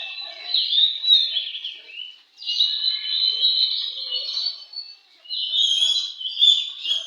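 Oriental magpie-robin (kacer) singing a loud, varied, rapid song of whistles and chirps, broken by two brief pauses, the first about two seconds in and the second about five seconds in.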